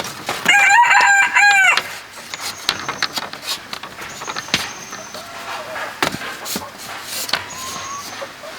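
A rooster crowing once, about half a second in, a loud call of about a second and a half that falls in pitch at its end. Scattered knocks and faint high chirps follow.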